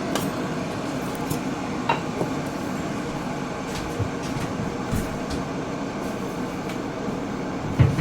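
Electric kettle heating water, a steady noise as the water warms toward the boil, with a few faint clicks.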